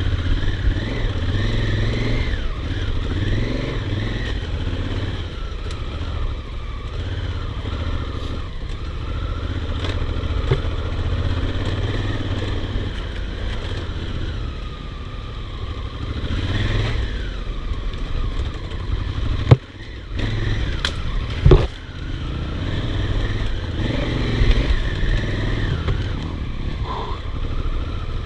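Honda Africa Twin's parallel-twin engine running as the motorcycle rides a rough dirt trail, heard from on the bike. Two sharp knocks come about twenty and twenty-two seconds in.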